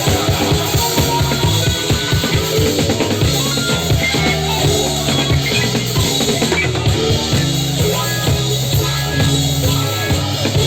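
Live band playing psychedelic trance: a drum kit keeping a steady, busy beat under bass, keyboards and guitar.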